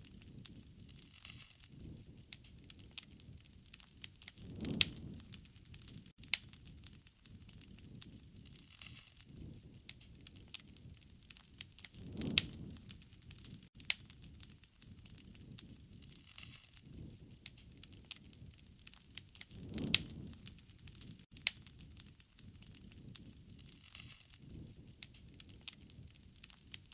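Wood fire crackling, with frequent sharp pops and snaps and a low, soft swell of the flames about every seven or eight seconds.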